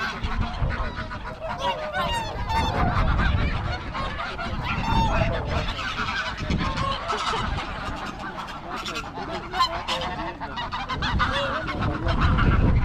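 A flock of geese honking continuously, many overlapping calls, with wind rumbling on the microphone underneath.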